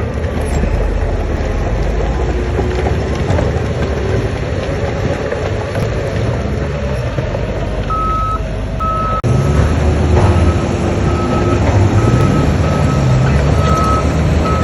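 Heavy diesel construction machinery running steadily, with a reversing alarm beeping repeatedly from about eight seconds in. The engine sound changes abruptly about nine seconds in and gets louder after that.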